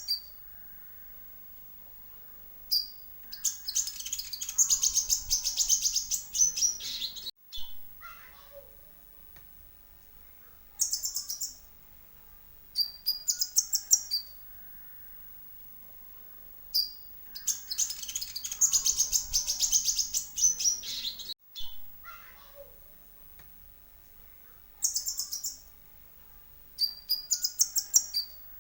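Kolibri ninja sunbird song: short bursts of rapid, high chirps and a longer fast chattering trill. The same sequence repeats about every 14 seconds, a looped lure recording.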